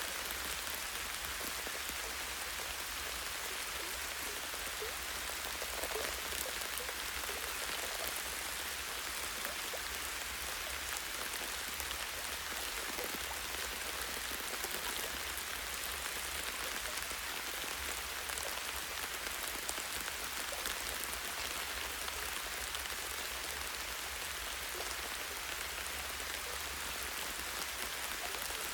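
Light, steady rain falling on leaves and a tree branch, an even patter of many small drops with occasional closer drips.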